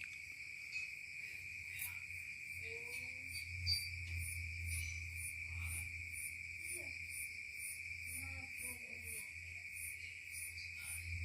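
Insects trilling steadily: one continuous high-pitched trill, with a second, higher trill pulsing about twice a second. A few faint short calls and a low hum sit underneath.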